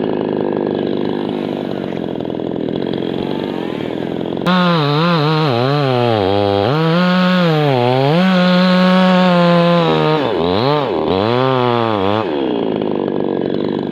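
Chainsaw running at high revs, its pitch rising and falling repeatedly as throttle and load change. About four and a half seconds in it suddenly gets louder and its note clearer, dipping sharply twice near the end before settling back to a rougher sound.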